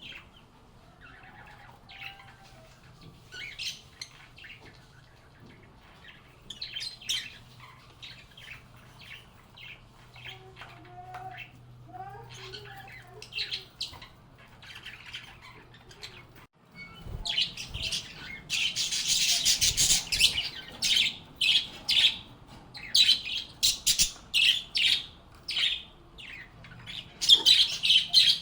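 Pet lovebirds chirping and squawking, with short high calls scattered at first. About halfway through, after a brief break, the calls become much louder and busier, with shrill squawks packed close together.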